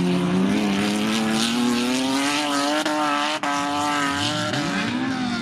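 Banger racing cars' engines running hard around the oval. One engine note climbs slowly over several seconds, and a second car's engine sweeps up in pitch near the end.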